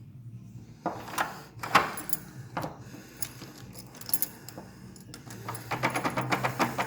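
A run of sharp clicks and rattles, a few scattered knocks at first, then a quick clattering run near the end, over a faint steady hum.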